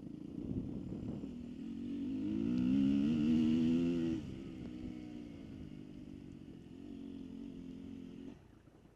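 Dirt bike engine revving up, its pitch and loudness rising for about two seconds. About four seconds in it drops back sharply, runs lower and steadier, and falls away near the end.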